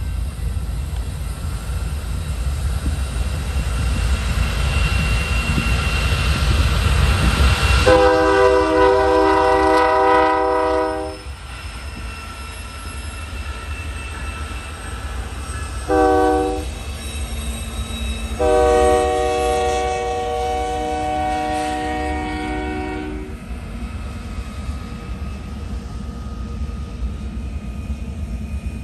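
Union Pacific diesel freight locomotives approaching and passing close, their rumble building, and the locomotive air horn sounding a long blast, a short one and another long one. After the horn, the freight cars roll past with steady wheel-on-rail clatter.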